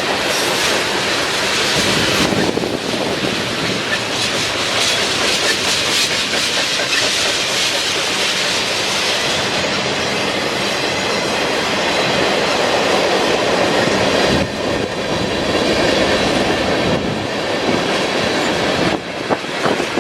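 Norfolk Southern train cars rolling past, steel wheels clicking over the rail joints in a steady rumble. The sound drops somewhat about 19 seconds in.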